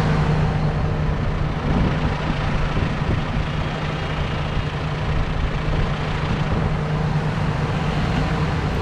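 John Deere 6R 175 tractor engine running steadily on the move, a constant low drone with road and mechanical noise.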